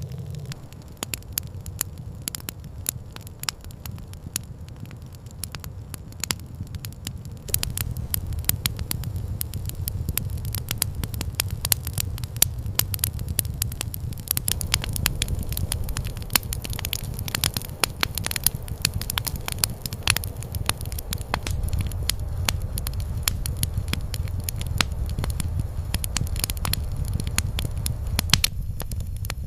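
Campfire crackling and popping over a steady low rumble, the crackles growing denser about a quarter of the way through.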